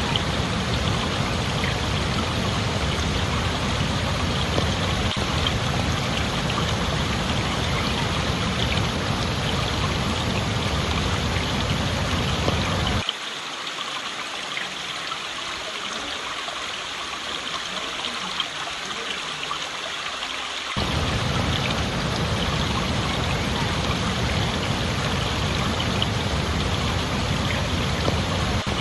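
Steady rush of flowing water, a stream or small waterfall. From about 13 to 21 seconds in it turns quieter and thinner, losing its low rumble, then comes back full.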